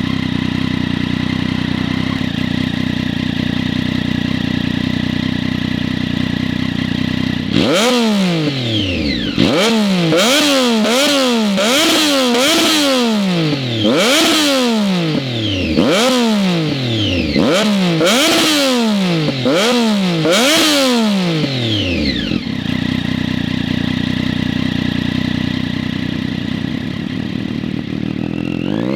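Triumph Daytona 675's three-cylinder engine through an open Bodis Q1 titanium exhaust with its dB-killers removed, idling steadily, then blipped hard about a dozen times in quick succession, each rev rising sharply and falling back, before settling back to idle about two-thirds of the way through.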